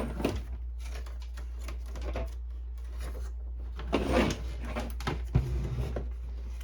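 Scattered clicks and light rubbing from hands handling the plastic parts and ribbon cables of a disassembled Canon Pixma printer, with a busier patch about four seconds in. A steady low hum runs underneath.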